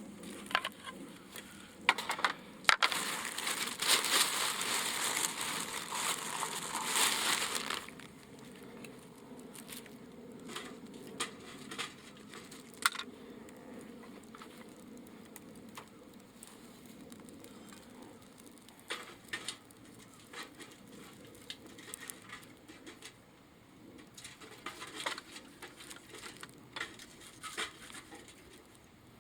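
Wood fire burning in a tab. can stove, crackling with scattered sharp pops. A louder stretch of crinkling, rustling noise lasts about five seconds, starting about two seconds in.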